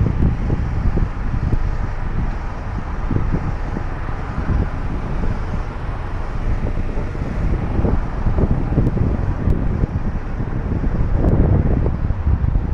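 Vehicle noise, a steady low rumble, with heavy wind buffeting on the microphone.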